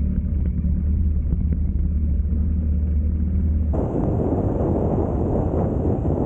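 Vehicle engine and road noise while driving: a steady low drone, then about four seconds in it switches abruptly to a broader rushing noise.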